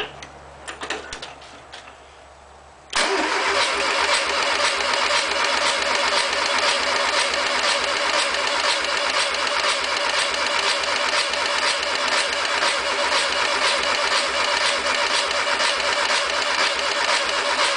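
Fuel-injected VW 1600 boxer engine being cranked over by its starter, turning over steadily without catching; the starter cuts in abruptly about three seconds in, after a few light clicks. It does not fire because the injector resistor has been left unplugged, so the injectors never fire.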